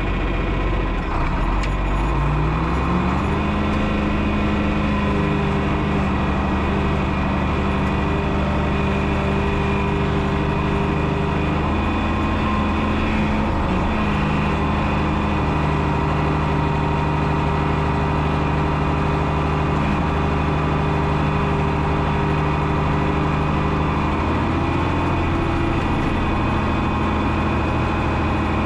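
John Deere 6030 tractor's six-cylinder diesel engine running steadily under plowing load. Its pitch rises about two seconds in as it revs up, then holds, with a brief dip in the middle and another rise in pitch near the end.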